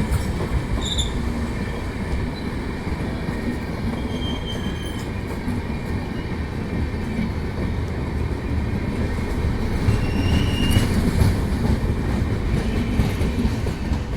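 Passenger express train rolling into a station, a steady low rumble of wheels on rails with a few brief high wheel squeals.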